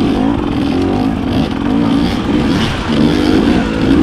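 Dirt bike engine running under a working throttle, its pitch rising and falling again and again.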